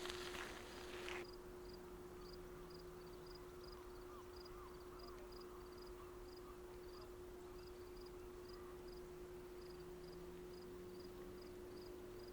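Faint cricket chirping, short high chirps repeated about twice a second, over a steady low hum. Footsteps on the trail stop about a second in.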